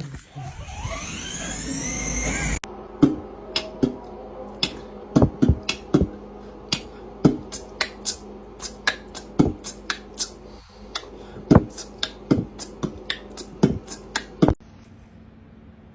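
A quick, irregular run of sharp taps, about two or three a second, that stops suddenly.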